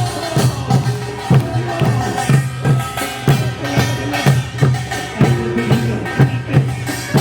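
Korean folk percussion music with a steady beat of drum strokes, about two a second, under some held melodic tones.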